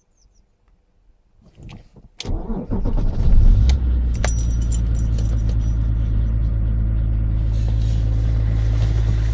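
BMW E39 525tds's 2.5-litre straight-six turbodiesel cold-starting: a short crank about two seconds in, it catches with a brief flare of revs, then settles into a steady idle.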